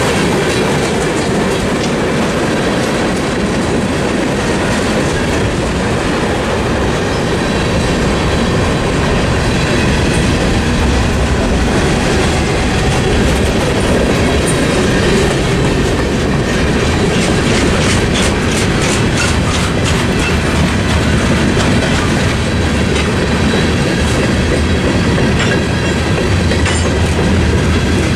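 Norfolk Southern mixed freight train of tank cars, boxcars and hoppers rolling past at close range: a steady rumble of wheels on rail with clickety-clack over the joints. A quick run of sharp clicks comes a little past halfway.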